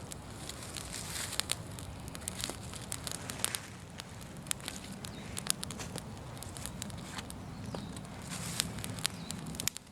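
Outdoor bonfire crackling, with frequent sharp pops and snaps over a steady low hiss of burning.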